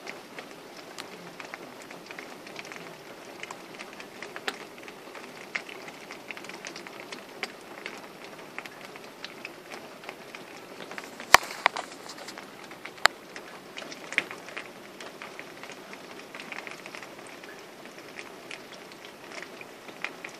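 Heavy rain: a steady hiss of falling rain with many scattered drops tapping, and two sharper, louder clicks a little past halfway, less than two seconds apart.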